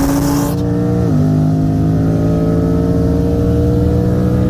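Car engine pulling hard under acceleration, its pitch climbing steadily, with an upshift about a second in where the pitch drops and starts climbing again. A rushing hiss stops about half a second in.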